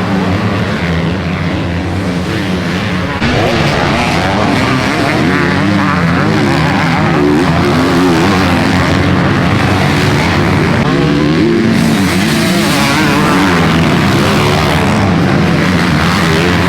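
Motocross bike engines revving up and down as the bikes race around the track. The sound steps suddenly louder about three seconds in.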